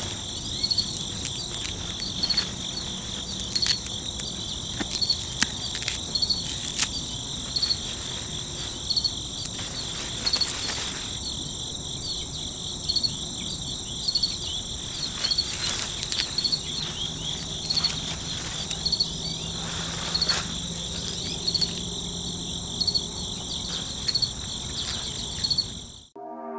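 Crickets chirping in a steady chorus with a regular pulse about every two-thirds of a second, with scattered sharp snips of grass stems being cut with a small blade. The chorus stops abruptly near the end.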